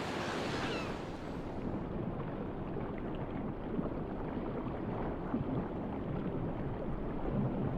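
Sea water rumbling and sloshing in a steady, low wash; the high hiss drops away about two seconds in, leaving a muffled rumble.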